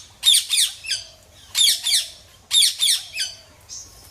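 Indian ringneck parrot (rose-ringed parakeet) giving loud, harsh squawks in three bursts of two to four quick calls each.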